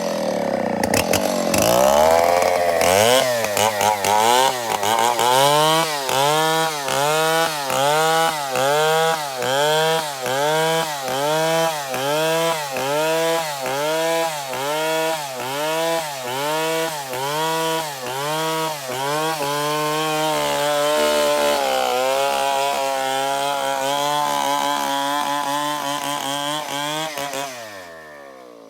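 Stihl 070 two-stroke chainsaw cutting binuang timber under load. Its engine pitch dips and recovers in a steady rhythm, a bit more than once a second, then holds steadier before winding down near the end.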